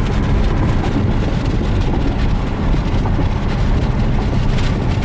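Chevrolet C8 Corvette Stingray's 6.2-litre V8 running under way, a steady low rumble mixed with road noise.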